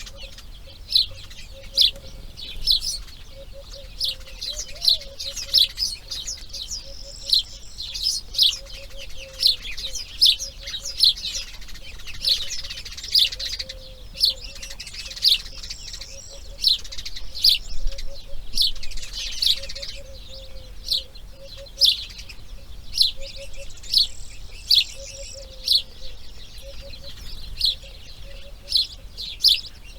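Birds chirping: short, sharp high calls repeated about once or twice a second, with a faint low wavering tone underneath.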